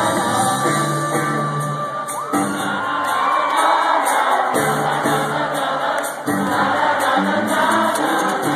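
Live rock band playing in a concert hall, with singing voices and crowd noise mixed in.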